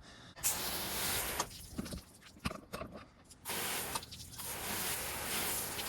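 Water spraying in a steady hiss, rinsing a truck's body, in two stretches with a break of scattered knocks between them.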